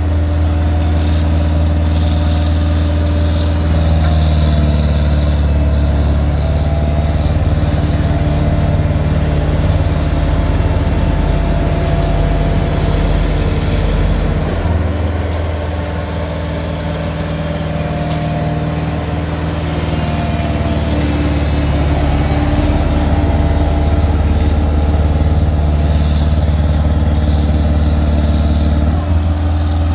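Heavy diesel engine of road-paving machinery running steadily with a deep, low hum, easing off slightly about halfway through and then picking back up.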